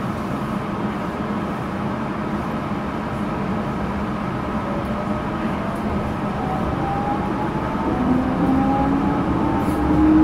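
Yurikamome rubber-tyred automated guideway train running, heard from inside the car: a steady rolling rumble, with the traction motor whine rising in pitch from about six seconds in as the train picks up speed.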